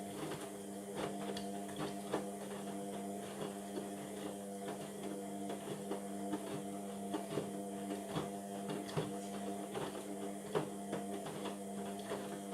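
Indesit washing machine running a cotton wash cycle: a steady motor hum and whine with irregular light clicks and knocks from the drum.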